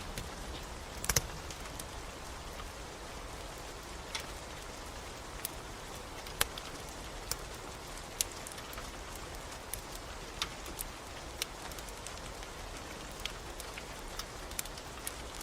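Steady rain hiss mixed with the irregular sharp pops and crackles of a burning wood fire, with a louder cluster of pops about a second in.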